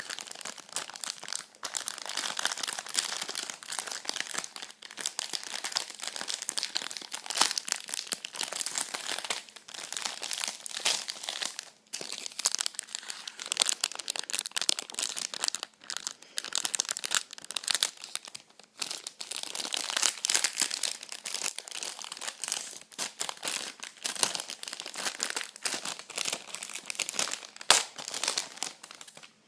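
Crinkly plastic packaging being crumpled and pulled open by hand as a wrapped gift is unwrapped: a dense, uneven run of crackles with a couple of brief pauses.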